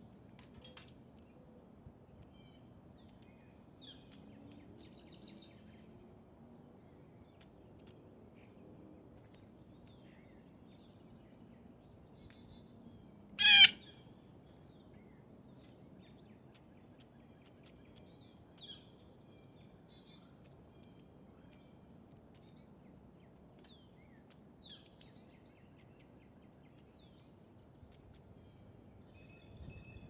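Wild birds: a single short, loud, harsh call about halfway through, over faint scattered chirps from other birds and a few light clicks.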